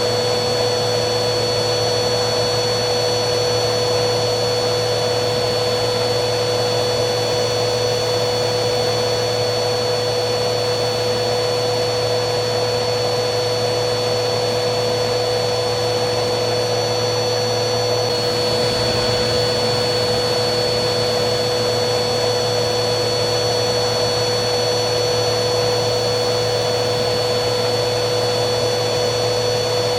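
Vacuum cleaner running steadily: a constant hum with a thin high whistle over a rush of air. The whistle shifts slightly in pitch about two-thirds of the way through.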